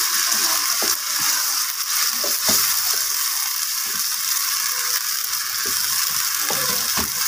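Chicken pieces and freshly added tomato purée sizzling in a pan, a steady frying hiss, while a wooden spatula stirring them scrapes and knocks against the pan at irregular moments.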